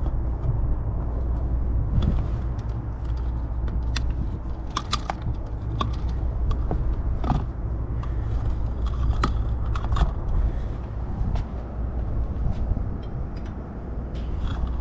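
Steady low rumble with light clicks and taps scattered through it, from wire and small hand tools being handled.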